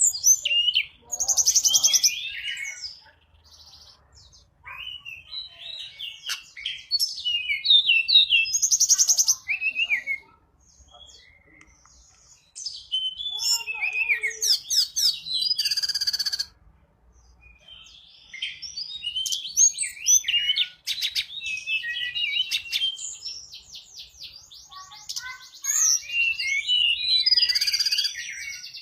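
Tledekan gunung birdsong as played to lure wild birds: bursts of quick, varied chattering phrases mixed with fast rattling trills, broken by short pauses.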